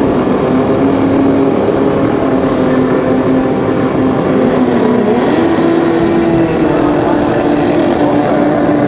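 Drag-racing motorcycle engines running loud at steady revs, their pitch stepping up about five and a half seconds in.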